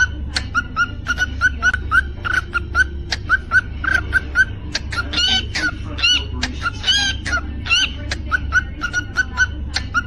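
Cockatiel chirping in quick, repeated short notes, about three a second, with a few longer warbling whistles about five to seven seconds in.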